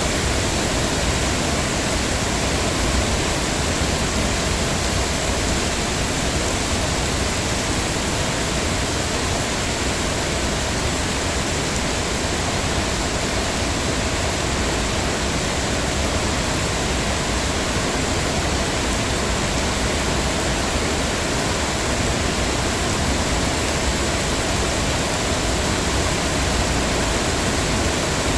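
Heavy rain falling steadily, a dense even hiss with no individual drops or breaks.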